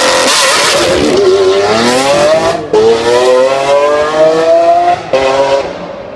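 Supercar exhaust under hard acceleration, the engine note climbing steadily in pitch. It breaks twice, about two and a half and five seconds in, for quick upshifts, and fades near the end.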